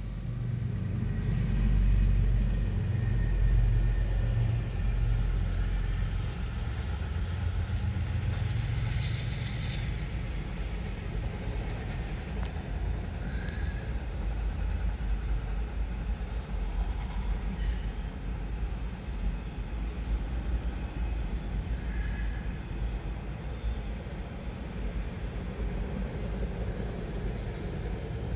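Freight train of autorack cars rolling past: a steady low rumble of wheels on rail with scattered light clicks, heaviest in about the first ten seconds.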